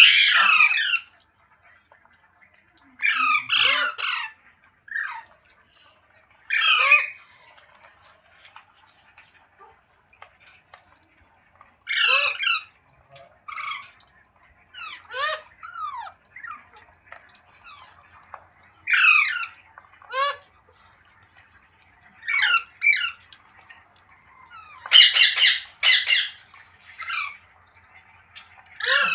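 Ringneck parrot squawking: loud, harsh calls in short bursts every one to four seconds, each burst a quick run of sharp notes.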